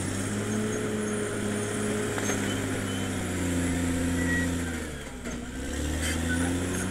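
Caterpillar D6R XL bulldozer's diesel engine running steadily, with a thin high whine over it; the revs dip about five seconds in and then climb back.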